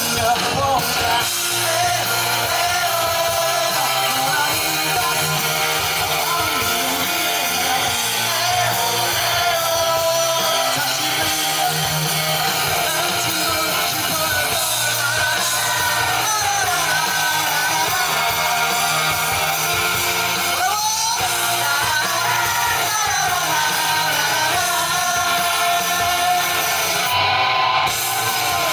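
A rock band playing live, with electric guitar and singing.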